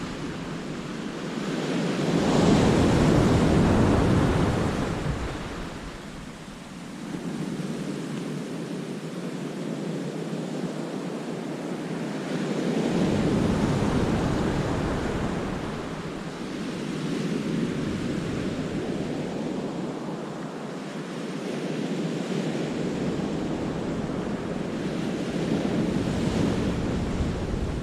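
Sea waves surging in and washing back over the rocks of a cove, swelling loudest about three seconds in and again about halfway through and near the end. Wind gusts rumble on the microphone.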